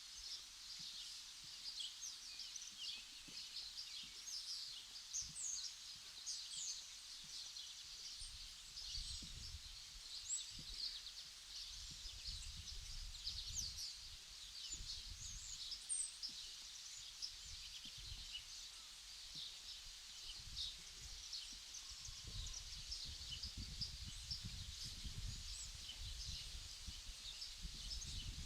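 Outdoor ambience of many small birds chirping densely and high, with irregular low wind rumbles on the microphone from about eight seconds in.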